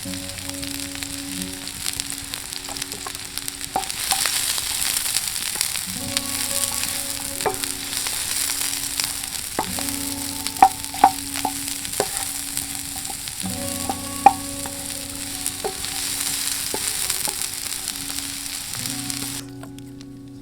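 Sausages and onions sizzling steadily in a hot Muurikka frying pan, with a few sharp clicks of a utensil against the pan as they are turned. The sizzle cuts off shortly before the end.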